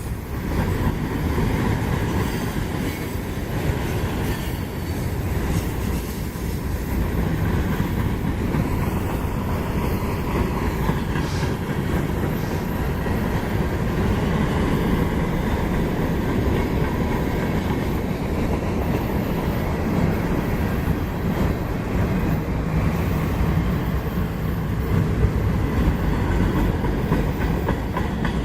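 Freight cars of a long manifest train rolling past on steel wheels, a steady low-pitched rolling noise that jumps in loudness about half a second in.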